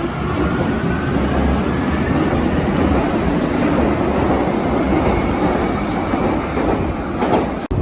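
Berlin U-Bahn large-profile train running, with a steady loud rumble and a faint whine rising in pitch as it picks up speed. The sound drops out abruptly for an instant near the end.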